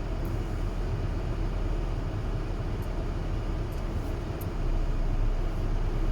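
Steady low rumble of a car idling, heard from inside the cabin, with a few faint ticks.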